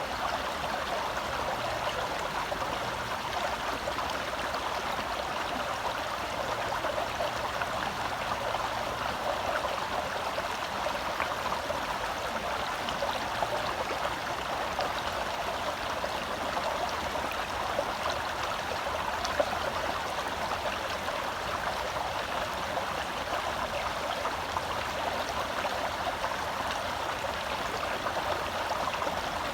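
Shallow forest stream flowing and babbling over rocks, a steady even rush of water.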